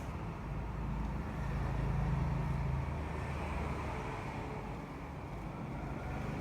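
An engine running steadily with a low hum, swelling a little about two seconds in.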